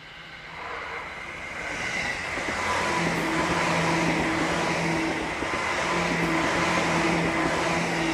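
Seibu 10000 series "New Red Arrow" limited-express train approaching and running past close by. Its noise builds over the first two seconds or so, then holds steady, with a low hum that comes and goes.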